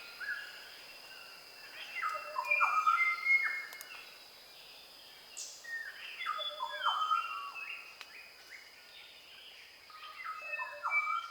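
Dawn chorus of forest birds, with bouts of short, sharply falling whistled notes coming in three loud spells, about two, six and ten seconds in. A steady thin high tone runs underneath.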